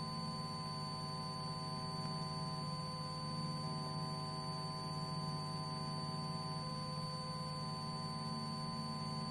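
Cessna Skyhawk's four-cylinder engine and propeller droning steadily in the climb after takeoff, heard muffled through the headset intercom, with a thin steady high whine over it.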